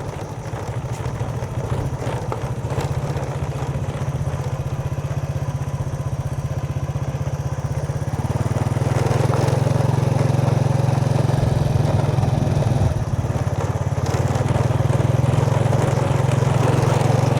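Vehicle engine running steadily while driving, growing louder about halfway through.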